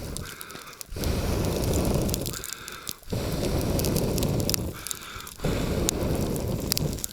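A person blowing hard on the last embers of a campfire to rekindle it: three long blows, each after a quick sharp breath in, with faint crackling from the coals.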